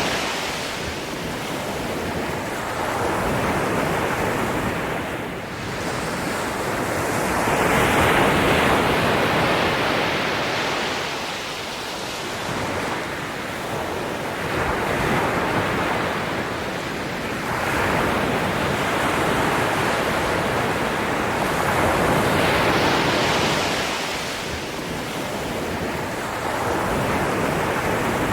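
Ocean waves breaking and washing on the shore, a continuous surf that swells and recedes every few seconds, with some wind on the microphone.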